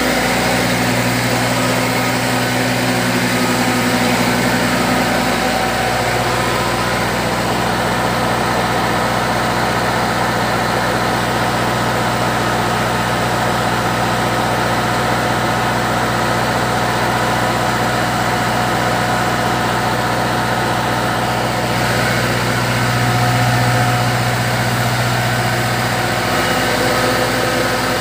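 The D4 drive engine of a fish-feed pellet machine running steadily, a continuous machine hum. Late on, a deeper hum swells for a few seconds and then settles back.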